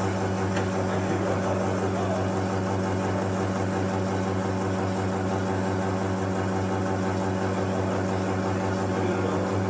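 A steady low engine hum at a constant pitch.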